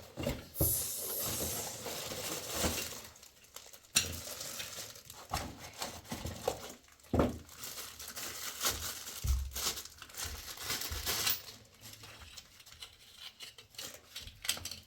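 Irregular knocks, clinks and rustling of things being handled, with one sharp knock about four seconds in.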